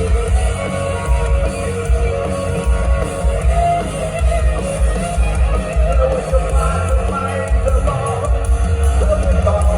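Loud live Thai rock band music: guitars over a heavy, pulsing bass and drums.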